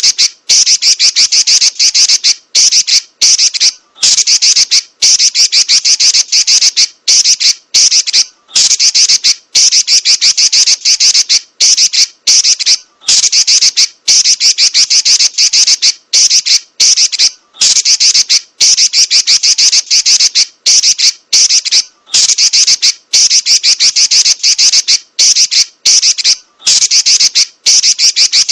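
Female Pekin robin (red-billed leiothrix) chattering in rapid, high-pitched rolls, each lasting a second or two and broken by brief pauses.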